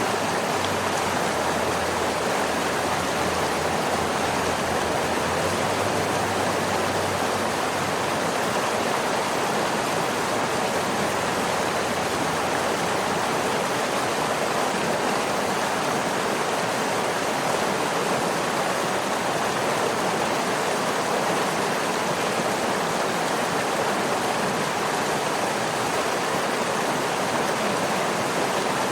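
Waterfall: water falling and rushing in a steady, even noise with no breaks or changes.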